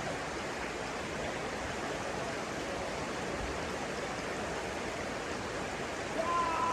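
Steady rushing of flowing water, a stream or small waterfall. Near the end a long pitched sound with several overtones starts and falls slightly in pitch.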